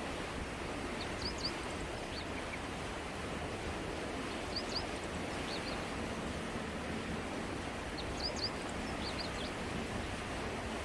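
Steady rushing of a river flowing. Over it, short high bird chirps come in small groups of two or three every few seconds.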